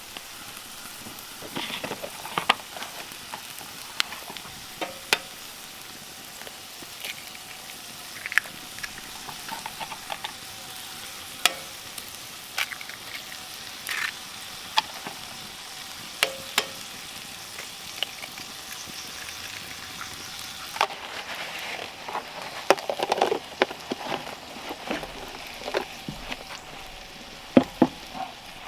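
Food frying and sizzling in a pan, with scattered sharp clicks and taps of a cooking utensil, busier near the end.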